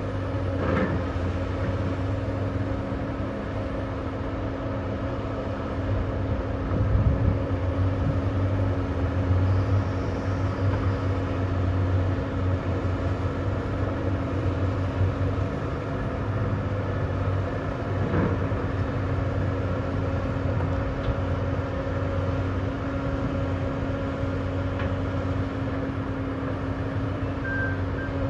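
Heavy diesel machinery engine running steadily under load, with a few brief knocks and clanks.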